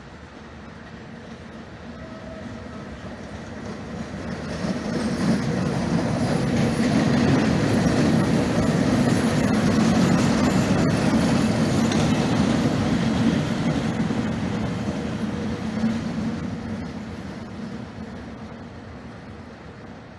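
Passenger train passing by on the rails, the sound of its wheels and running gear swelling over about six seconds, staying loud for several seconds, then fading away as it moves off.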